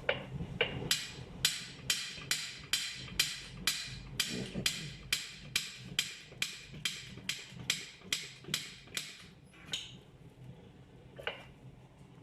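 Hammer tapping on an alloy wheel: an even run of sharp strikes, about two and a half a second for some eight seconds, then two single strikes near the end.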